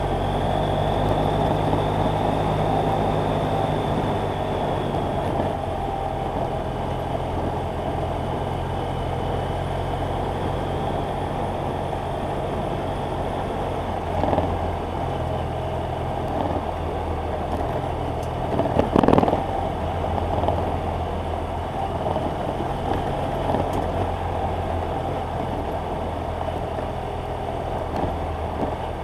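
BMW F800GS Adventure's parallel-twin engine running steadily, its pitch shifting a little now and then. Two short knocks stand out, about halfway through and a few seconds later.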